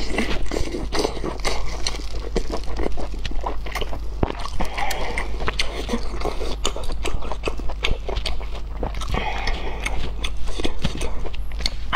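Close-miked eating: biting, chewing and wet smacking on cooked meat, with many small crisp clicks.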